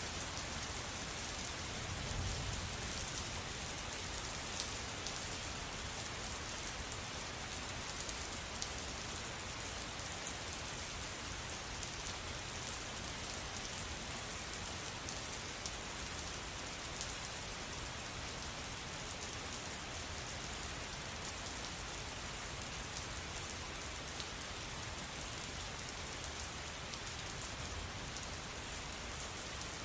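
Steady rain falling, with the patter of individual drops.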